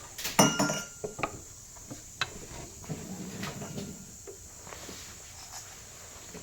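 Steel jack stands and a floor jack being handled under the car: a loud metallic clank with a brief ring about half a second in, then several lighter knocks and clinks.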